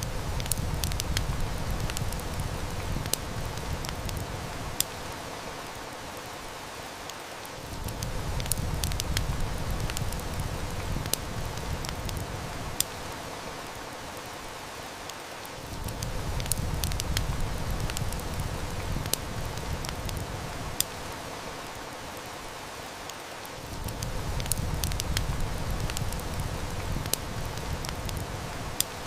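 Steady heavy-rain hiss mixed with a wood fire crackling, with sharp snaps standing out a few times. A deep rumble swells and fades about every eight seconds, the same pattern repeating like a short loop.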